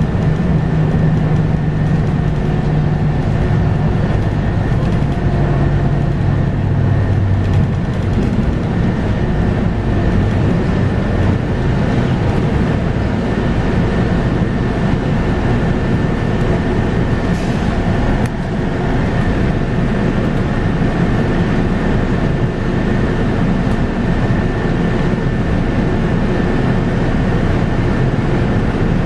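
Scania K230UB bus with its 5-cylinder Scania DC9 diesel and ZF Ecomat automatic gearbox, heard from inside while underway. A strong engine hum is there for the first several seconds, then eases. Steady road and drivetrain noise and a thin high whine continue throughout.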